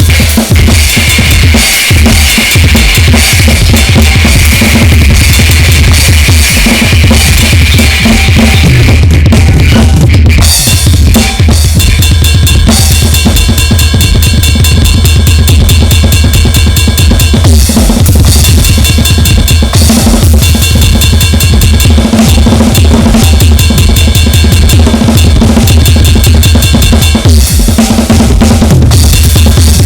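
Harsh noise music: very loud, dense distorted electronic noise over fast drumming, with a steady low drone underneath. About ten seconds in the texture shifts and layered high whining tones come in.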